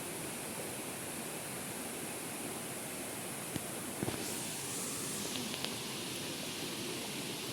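Steady rushing of a waterfall, with a few short sharp clicks about halfway through.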